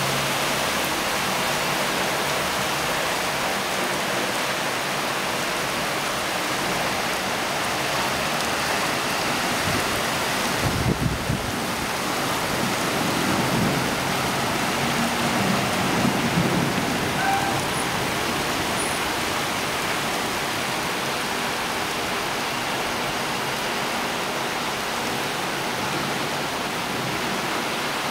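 Heavy rain falling steadily, a dense even hiss of a downpour on ground, roofs and puddles. A few brief low rumbles come about halfway through.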